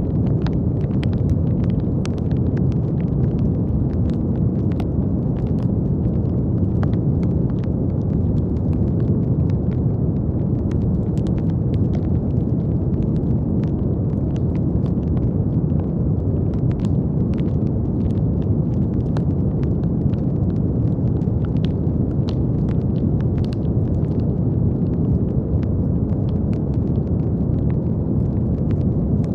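Steady brown noise: a deep, even rushing hiss weighted toward the low end, with faint scattered crackles throughout.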